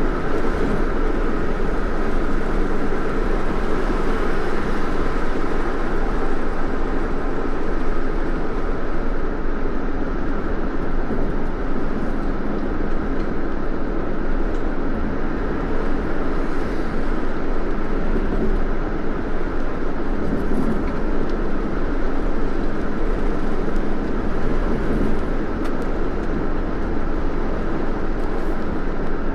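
Steady road and engine noise of a moving car, an even rumble and hiss without breaks.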